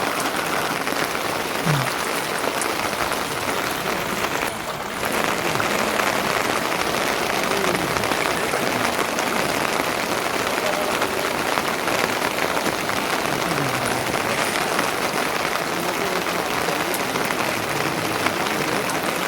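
Steady rain falling, an even dense patter that dips briefly about five seconds in.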